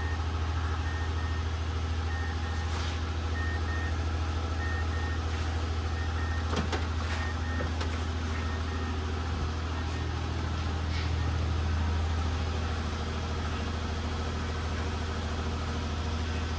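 A steady low hum with a soft electronic beep that repeats about once every second and stops about nine seconds in. A few faint clicks sound over it.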